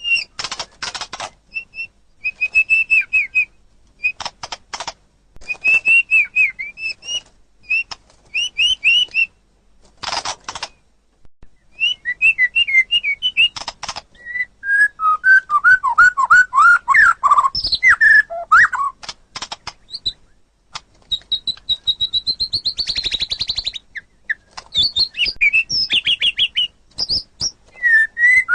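White-rumped shama singing in short, varied phrases: quick whistled notes and slurred glides alternating with harsh rasping rattles, with brief pauses between phrases. Past the middle, the phrases drop lower and slide about more before rising again to high, buzzy notes.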